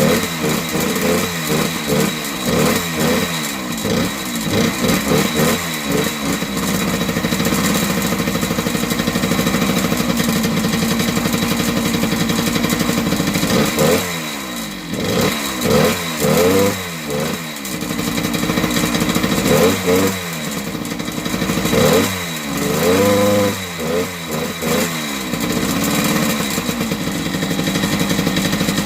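1978 Yamaha DT100's small single-cylinder two-stroke engine running on a test run after piston work, blipped up in quick repeated revs that fall back each time, settling to a steady idle in between.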